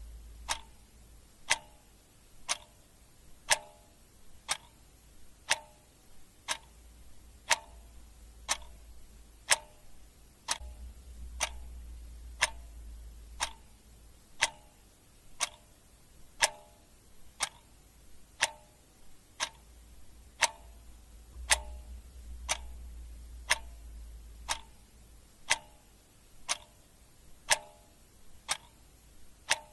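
Clock ticking steadily, about one tick a second, with a faint low rumble coming and going beneath it.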